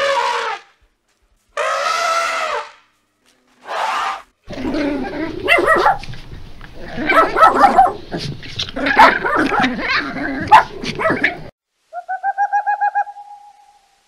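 Three short African elephant calls in the first four seconds, then a small white terrier barking for about seven seconds, then near the end a quick run of about eight hoots from a white-faced owl, trailing into one held note.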